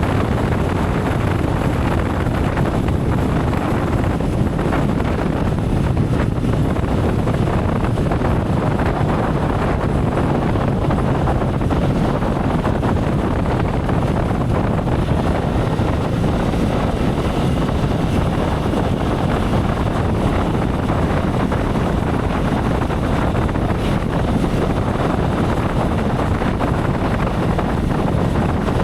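Steady rush of wind on the microphone and road noise from a motorcycle underway at speed.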